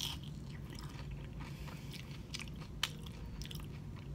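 Close-miked chewing of fish and chips, with scattered small wet mouth clicks and one sharper click a little before three seconds in. A steady low hum sits underneath.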